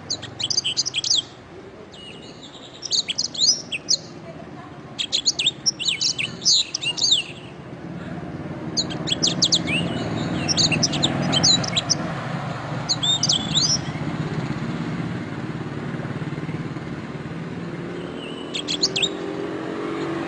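Canary singing in short phrases of rapid, sweeping high notes, about six bursts with pauses between them, over a low steady background noise that grows louder after the first few seconds.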